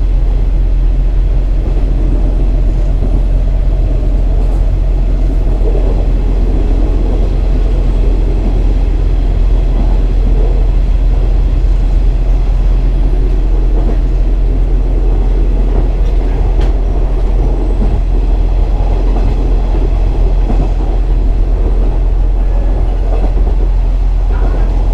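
KiHa 47 diesel railcar running, heard from inside the car: a steady engine drone under wheel and rail noise, with one sharp tick about two-thirds of the way through.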